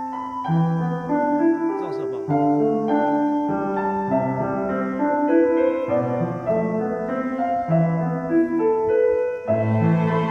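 Background music with a piano melody, notes moving in a slow, even line.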